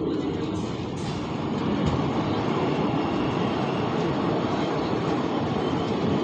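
A passenger train passing close on the next track: its WAP-7 electric locomotive goes by, then its coaches roll past with a steady, heavy rumble that grows a little louder after about two seconds.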